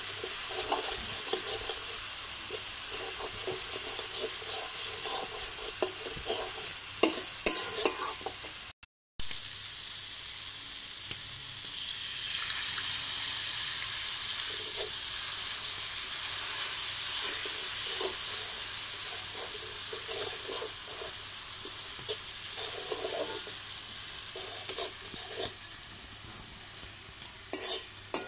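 Onion and spice masala sizzling in hot oil in a metal kadai, with a spatula stirring and scraping against the pan. The sizzle is steady, with a few sharper scrapes and knocks about a quarter of the way in and again near the end, and the sound drops out briefly about a third of the way in.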